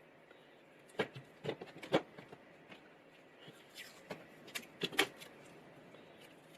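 Irregular sharp clicks and light knocks, seven or so in two clusters, as small hard parts are handled and set down on a workbench, with a brief scraping squeak in between.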